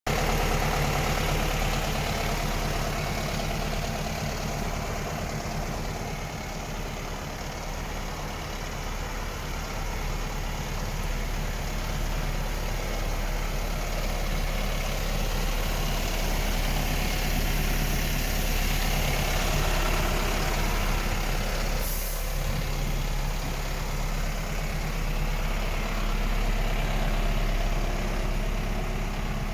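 Renault D 220 truck's diesel engine idling steadily. There is one short hiss about two-thirds of the way through.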